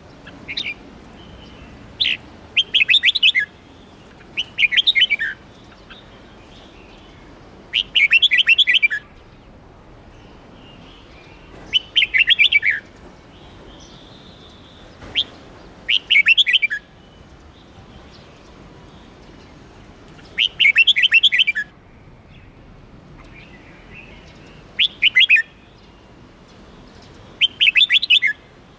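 Red-whiskered bulbul singing: short, quick, bright phrases of chirping notes repeated every few seconds.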